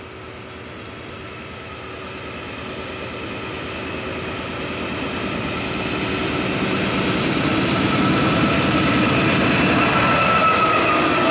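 GE AC44C6M and ES44AC diesel-electric freight locomotives approaching and passing close. The engine and rail noise grows steadily louder, and a high whine dips slightly in pitch as the lead locomotive goes by near the end.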